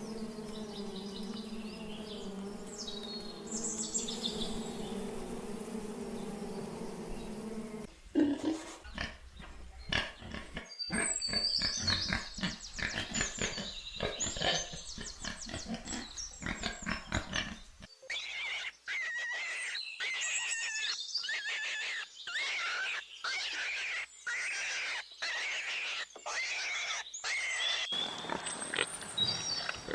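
Several different animal calls played one after another, changing about eight, eighteen and twenty-eight seconds in: a steady low call first, then sharp repeated sounds mixed with high calls, then high chirping calls broken by short gaps.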